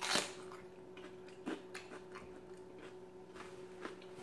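A crisp raw mini sweet pepper bitten into with one sharp crunch, then chewed with a few smaller crunches and wet mouth clicks.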